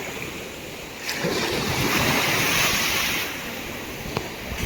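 Small sea waves washing onto the shore; one wash swells about a second in and eases off about two seconds later, with a faint click near the end.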